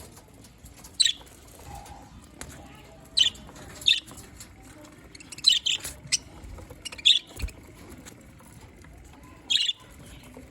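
Budgerigars giving short, sharp chirping calls, about seven in all at irregular gaps of one to two seconds, a few coming in quick pairs.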